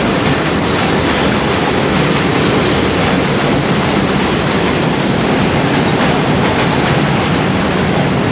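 NYC Subway work train passing close by: steady, loud wheel-on-rail noise with faint clicking of the wheels over the rail joints.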